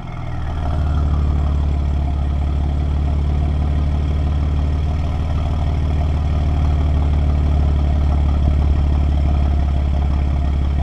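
BMW M4 F82's twin-turbo inline-six idling steadily through a custom exhaust with downpipes, cat delete and an X-pipe in place of the resonator. It gives a loud, even, low drone that settles in during the first second.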